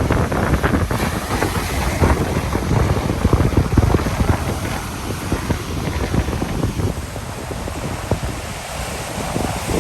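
Ocean surf breaking and washing up the beach, with wind buffeting the microphone in low thumps. It is loudest in the first half and eases off after about five seconds.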